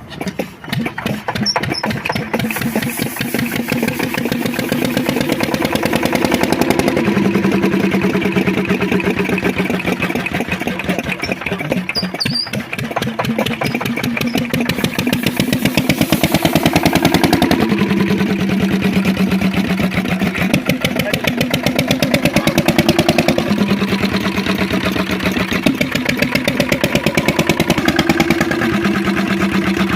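Kirloskar single-cylinder diesel engine running with a rapid, even chugging.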